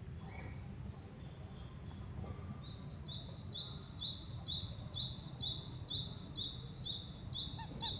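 A songbird singing a fast, repeated two-note phrase, a short flat note followed by a higher one, about twice a second, starting about three seconds in, over a low steady background rumble.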